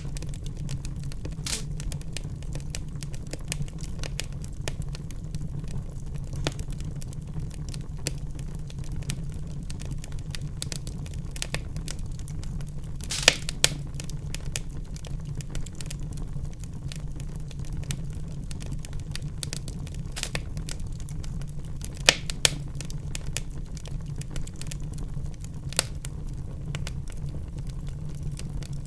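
Wood fire in a fireplace crackling: a steady low rumble of flames under a constant scatter of small sharp pops and snaps. A few louder pops stand out around halfway through and again about two-thirds in.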